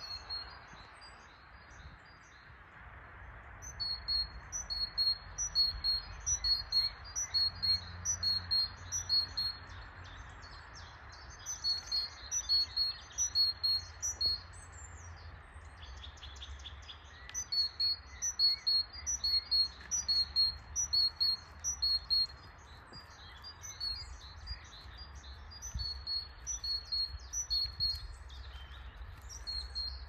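Birdsong: a bird repeats a rapid series of high notes, about two to three a second, in four bouts of several seconds each, with fainter calls from other birds between them. A steady faint hiss runs underneath.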